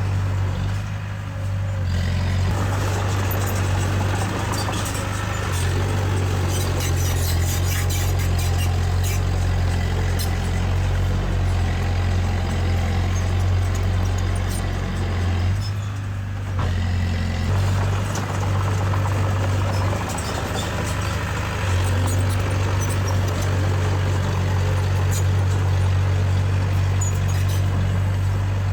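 Diesel engine of heavy earthmoving machinery running steadily under work, dipping briefly twice, with a stretch of metallic clicking and clatter partway through.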